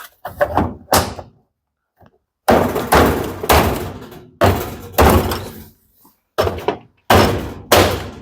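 A string of about a dozen sharp thunks and knocks at irregular intervals, closer together in the second half, as a washing machine's control panel is pressed and knocked into place after the control board has been refitted.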